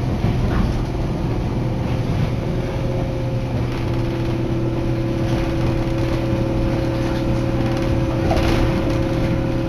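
Matsumoto Electric Railway Kamikochi Line electric train running between stations, heard from inside the car: a steady rumble of wheels and running gear with a low hum, and a steadier higher hum coming in a few seconds in.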